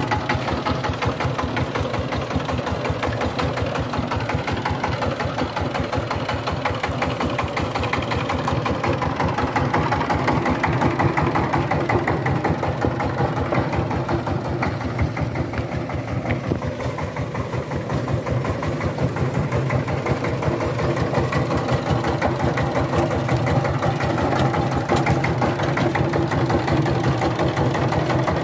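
Power tiller's diesel engine running steadily, with rapid, even firing knocks.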